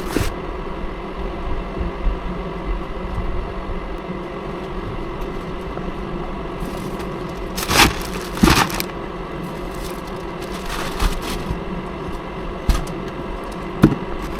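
Semi truck engine running with a steady hum, with a few sharp cracks or rattles over it, the loudest pair about eight seconds in.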